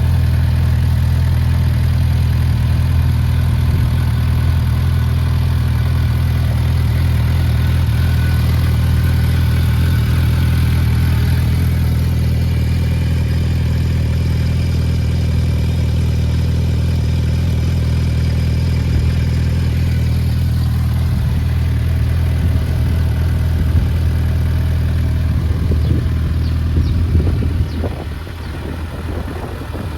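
Suzuki GSF650S Bandit's inline-four engine idling steadily through an aftermarket Black Widow exhaust with the dB killer fitted. Near the end the sound drops in level and turns uneven.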